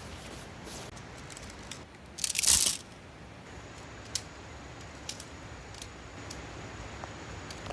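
Tent gear being handled while pitching a tent: one short, loud crunching, tearing rustle about two seconds in, then a few light clicks and taps.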